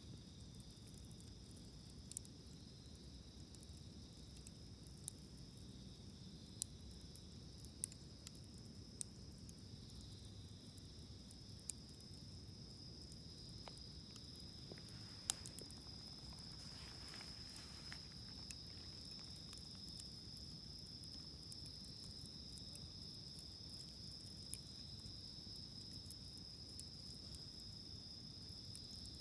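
Wood campfire crackling faintly, with sparse sharp pops, the loudest about halfway through, over a steady high-pitched chirring of insects.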